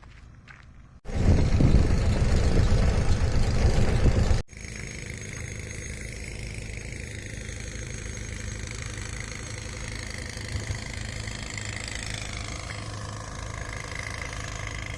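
A loud, even rush of noise for about three seconds, cut off suddenly, then a vehicle engine running steadily at idle with a low hum.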